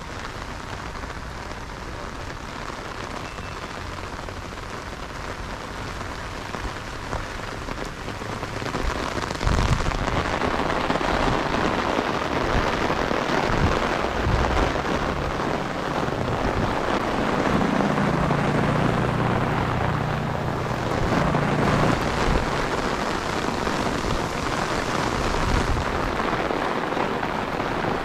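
Heavy rain pouring down onto a street, the downpour growing louder about a third of the way in. A low hum sounds for a few seconds past the middle.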